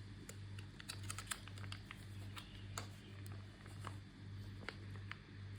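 Scattered light clicks and taps of small objects being handled, over a low hum that swells and fades about three times every two seconds.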